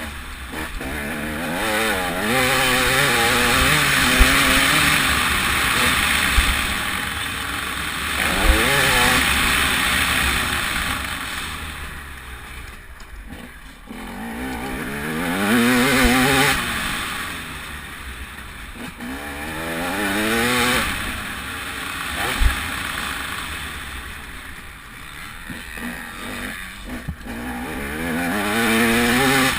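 TM 300 two-stroke motocross bike engine, revved hard and backed off again and again, its pitch climbing in repeated runs, with wind rushing over the microphone. A few sharp thumps stand out, about four seconds in, near eight seconds, around sixteen and around twenty-two seconds.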